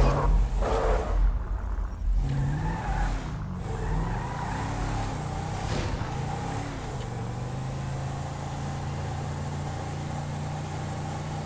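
Car engine sound effect revving a few times, then running on at a steady pitch.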